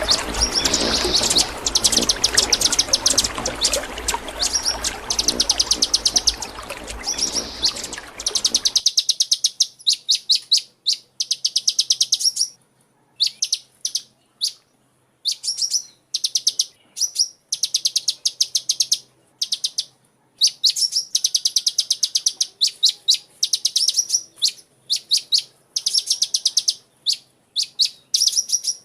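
A small bird, the sunbird sold in Indonesia as a 'kolibri', sings in rapid high chirping trills, phrase after phrase with short gaps between them. For the first nine seconds or so a steady hiss runs underneath, then stops abruptly.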